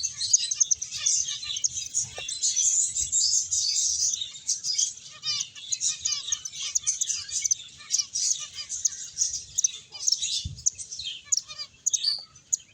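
A group of finches chirping, many short high calls overlapping without a break.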